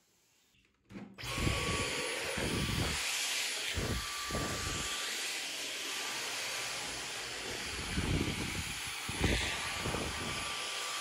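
Vacuum cleaner switched on about a second in and running steadily: an even hiss with a faint steady whine, with irregular low thumps.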